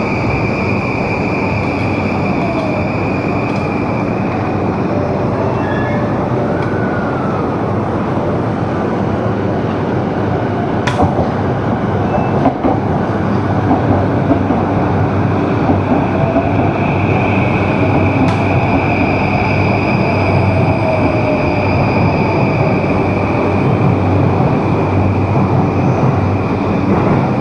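Train noise at a railway platform: a loud, steady rumble with faint whines gliding up and down, and a sharp click about eleven seconds in and another about eighteen seconds in.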